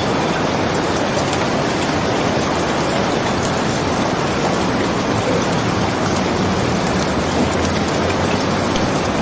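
Steady, heavy rain falling, an even hiss with faint scattered ticks of drops through it.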